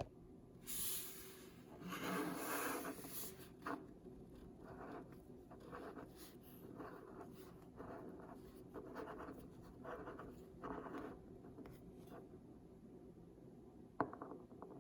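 Paper packaging being handled and opened: a run of short scratching and rustling strokes, with a sharp click near the end.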